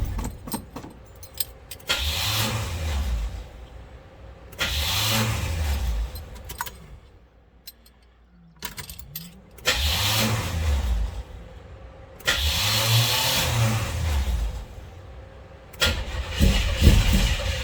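1971 Chevrolet C10 pickup's engine being cranked on the starter in about five separate bursts of a second or two each, not yet catching: a cold start after a week of sitting.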